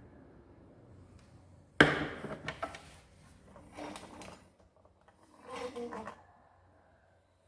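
Hard parts being handled and set down: a sharp knock about two seconds in, then several shorter clicks and rattles.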